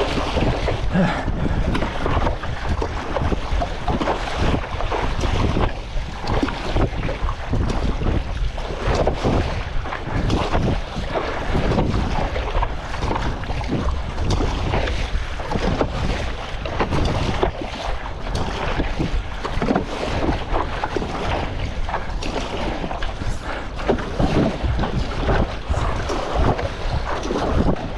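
Strong wind buffeting the microphone, a heavy rumble with irregular gusts, over choppy seawater splashing.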